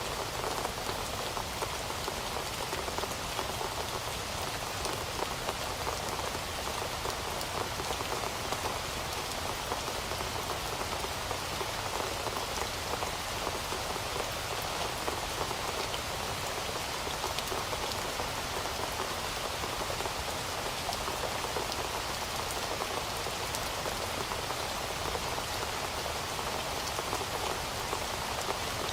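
Heavy rain falling steadily on a surface, a dense even hiss full of fine drop impacts.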